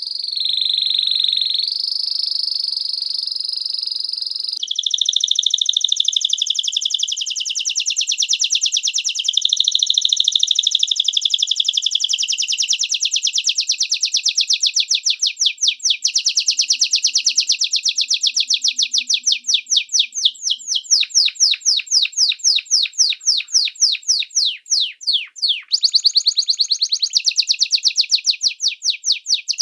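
A small songbird singing: high whistled notes for the first few seconds, then long, fast trills of rapidly repeated high notes whose pace and pitch shift from phrase to phrase.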